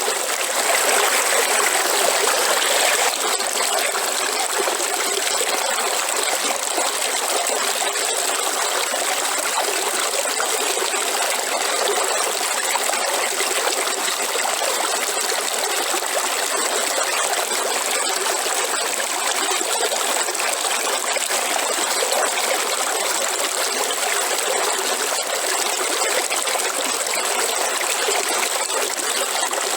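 Waterfall: a steady rush of falling water, a little louder for the first few seconds.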